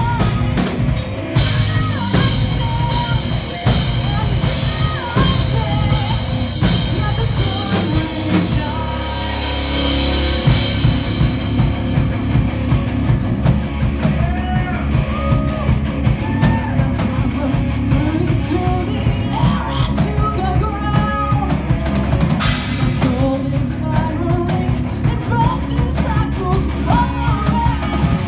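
Live metal band playing: drum kit, distorted guitars, bass and singing. Cymbals crash steadily for roughly the first ten seconds, then mostly drop out while the drums, low guitar and bass, and vocals carry on.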